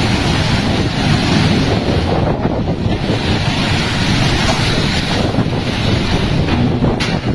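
Storm wind gusting hard against the microphone: a loud, steady rush with a heavy low buffeting rumble.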